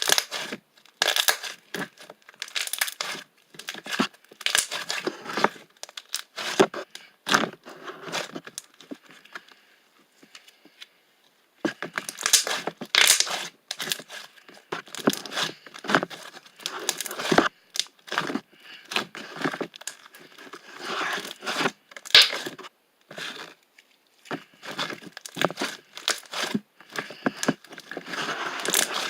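Close-up crinkling and tearing, as of paper or plastic being handled, in irregular bursts with a brief lull about ten seconds in.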